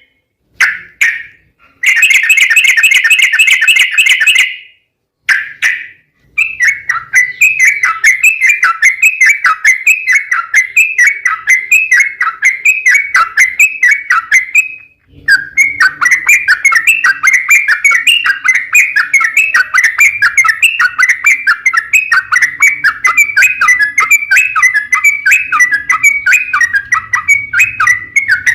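Yellow-vented bulbul (trucukan) singing its long, fast rolling song of repeated chirping notes. It comes in short runs broken by sudden cuts in the first few seconds, then in long unbroken runs, with one brief break at about 15 seconds.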